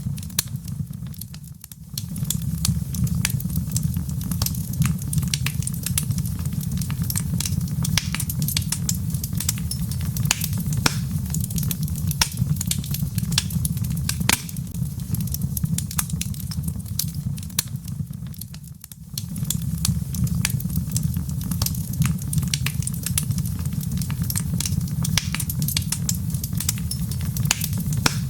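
Wood fire crackling in a fireplace: a dense run of sharp pops and snaps over a steady low rumble of the flames. The sound dips briefly twice, shortly after the start and again about two-thirds of the way through.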